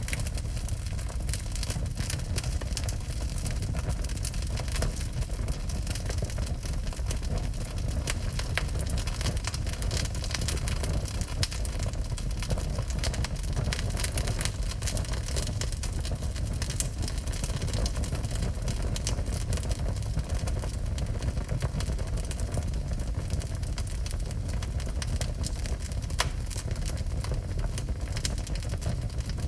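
Wood fire burning in a fireplace, with frequent sharp crackles and pops over a steady low rumble.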